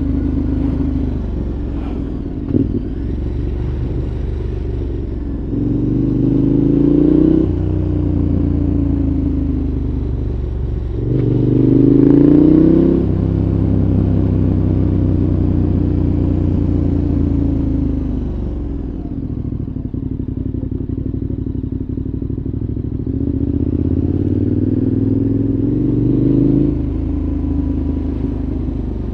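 2014 KTM 1190 Adventure's V-twin engine through a Giannelli exhaust with dB killer, heard on board under way. The revs climb three times, about six, eleven and twenty-three seconds in, and drop sharply after the first two climbs. Between the climbs the engine runs steadily or winds down on a closed throttle.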